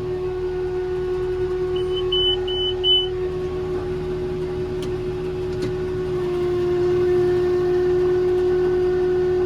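Tractor engine running steadily under load, driving a round baler, its note stepping up slightly about six seconds in. About two seconds in, four quick high beeps from a cab monitor sound over it.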